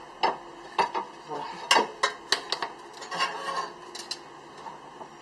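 Irregular sharp metallic knocks and clinks of tools on metal as a drive axle is worked out of a Honda Civic's automatic transmission, a few strokes each second in places.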